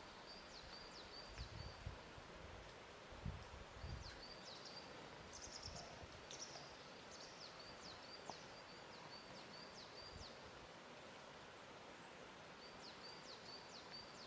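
Quiet lakeshore ambience: a soft steady hiss with a few low thuds of water lapping in the first four seconds, and a small bird repeating quick high chirps and short trills in several runs.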